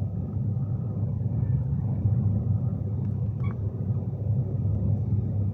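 Steady low rumble of a Class 390 Pendolino electric train running at speed, heard from inside the passenger saloon.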